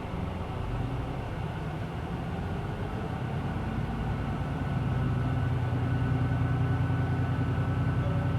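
Hino Blue Ribbon City Hybrid bus's diesel-hybrid drivetrain pulling away from a stop, heard from inside the cabin. The engine drone builds as the bus accelerates, growing louder and steadier about four to five seconds in.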